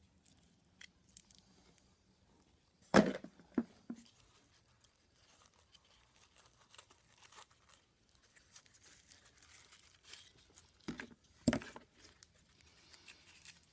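Small bags of ribbon and trim being handled and opened: faint crinkling and rustling, with two sharp crackles about three seconds in and two more later on.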